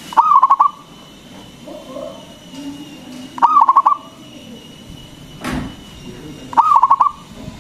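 Local-strain zebra dove (perkutut) singing its short, rapid cooing phrase three times, about three seconds apart.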